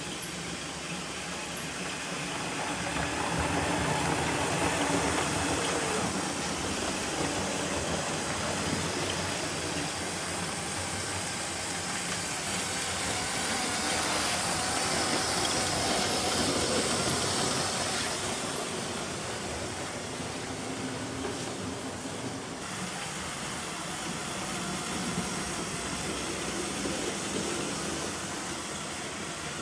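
Motorized Lego train running on plastic Lego track, a steady whir and rattle of motor and wheels. It swells louder a few seconds in and again around the middle as it passes close by.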